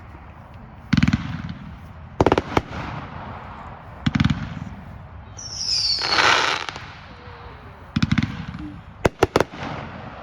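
Consumer aerial fireworks firing: groups of sharp bangs about every second or two, each with a crackling trail. Midway there is a hissing whistle that falls in pitch, then more bangs, with a fast triple near the end.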